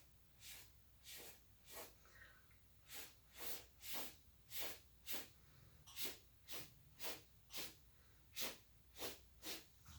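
A quick run of about sixteen short, airy hisses, roughly two a second, louder through the middle.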